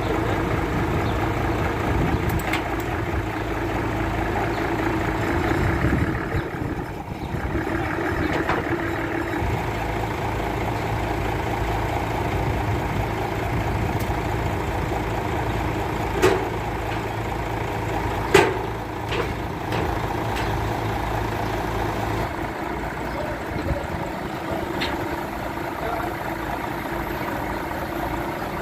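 Boom truck engine running steadily, with two sharp knocks about sixteen and eighteen seconds in, the second the louder.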